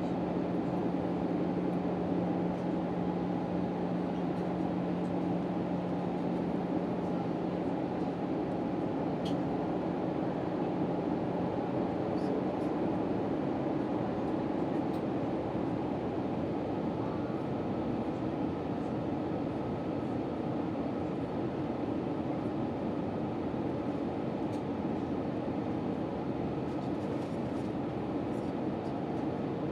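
Steady cabin noise inside an Airbus A319 airliner in flight: the engines and the airflow over the fuselage make a constant roar. A low steady hum in the noise stops about twelve seconds in, and a faint higher steady tone sets in a few seconds later.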